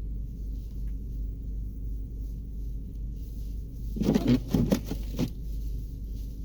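Strong blizzard wind buffeting the microphone as a steady deep rumble, with a short spell of harder, crackling gusts about four seconds in.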